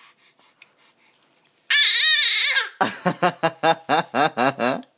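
Baby vocalizing loudly: a high, wavering squeal about two seconds in, then a rapid run of short repeated voice sounds, about five a second, each dropping in pitch.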